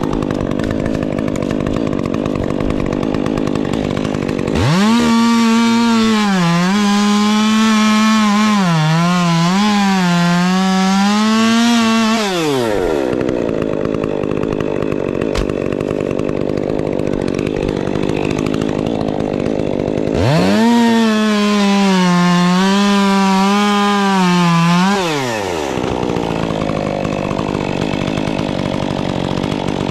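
Chainsaw running at idle, then opened to full throttle and cutting twice, for about eight seconds from about five seconds in and for about five seconds from about twenty seconds in. The engine note sags and wavers as the chain bites into the wood, then drops back to idle between cuts.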